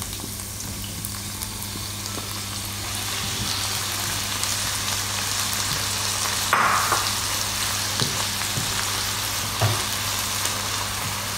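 Diced tomato and softened onion frying in a stainless steel pan, a steady sizzle that grows a little louder a few seconds in, stirred with a silicone spoon. A short louder scrape comes about two-thirds of the way through.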